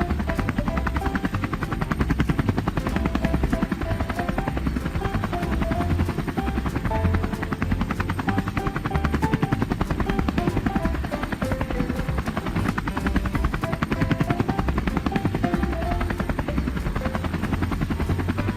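Helicopter rotor sound effect, a steady rapid chopping over a low rumble, with a simple background melody played over it.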